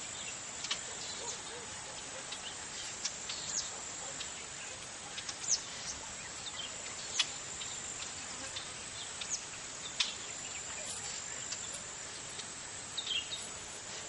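Outdoor nature ambience: a steady hiss of background noise with scattered short, high bird chirps, several of them quick downward sweeps.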